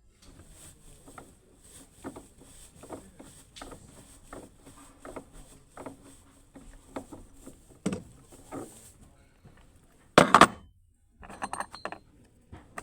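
Small metal clicks and clinks of hand tools and hardware being handled, uneven and intermittent, with a louder clunk about ten seconds in followed by a quick run of clicks.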